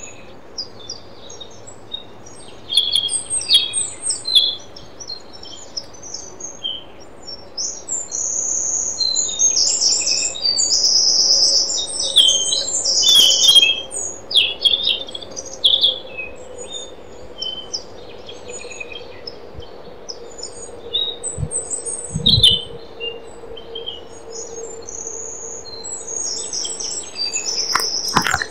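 Songbirds chirping and singing, many short high calls and trills overlapping and coming and going.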